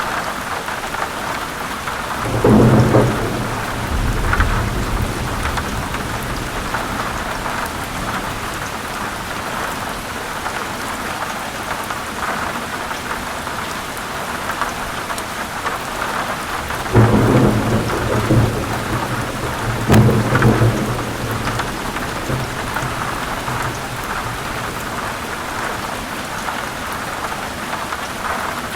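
Heavy rain falling steadily in a thunderstorm, with thunder rumbling three times: once about two seconds in, and twice in close succession past the middle.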